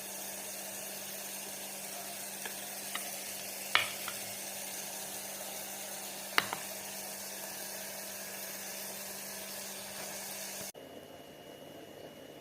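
Food frying in hot oil, sizzling steadily, with two sharp clinks about four and six and a half seconds in. The sizzle cuts off abruptly near the end, leaving a quieter background.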